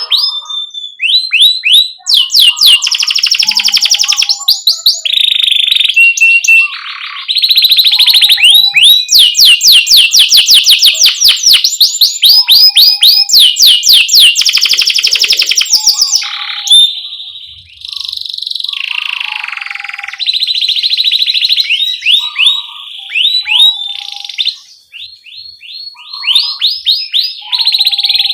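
Domestic canary singing: a long song of fast rolled trills of repeated high sweeping notes and chirping "cuit-cuit" phrases, one after another with brief breaks.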